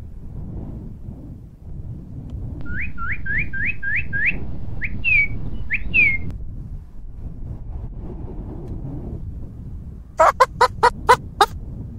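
Birds calling: a run of quick whistled notes, most of them sweeping upward, from about three to six seconds in. Near the end come six short, sharp, loud calls in quick succession.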